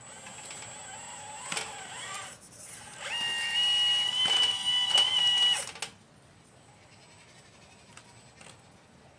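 Motor-driven hydraulic pump of a 1/12-scale RC Liebherr 954 excavator whining. A quieter whine shifts in pitch for about two seconds. A louder, steady high whine follows from about three seconds in and cuts off suddenly near the six-second mark.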